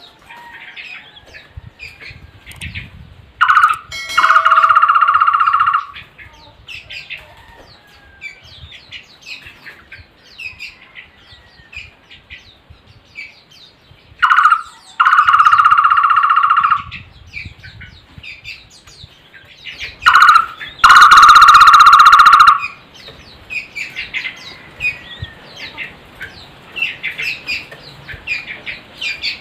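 Takur barbet calling three times, each call a short note followed by a steady, fast trilled tone about two seconds long. Smaller birds chirp faintly between the calls.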